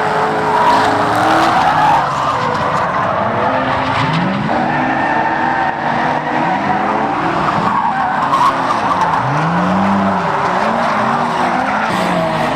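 Drift cars sliding, their engines revving up and down again and again over the steady hiss and squeal of skidding tyres.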